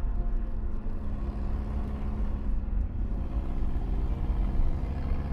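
Air-cooled flat-four engine of a modified 1970 VW Beetle running on twin Weber carburettors as the car drives along at a steady pace, a continuous low rumble.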